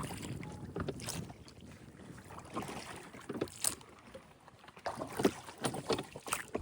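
Water splashing and lapping irregularly against the hull of a small 7-foot dinghy under way, with a light rush of wind.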